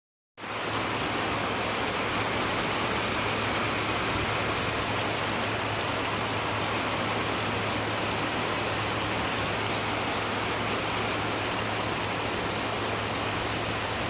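Heavy rain pouring down and pattering on surfaces in a steady, dense hiss, starting about half a second in. A steady low hum runs beneath it.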